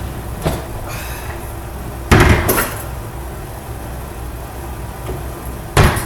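Kitchen tools and cookware knocking and clattering as they are handled: a small click, then two loud knocks about two seconds in and another near the end, over a steady low hum.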